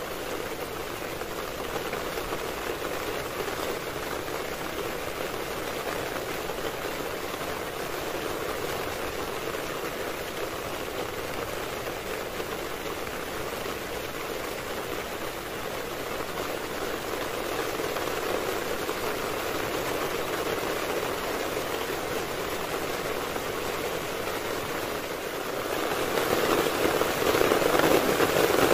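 Heavy rain falling steadily, a dense even patter that grows louder and heavier near the end.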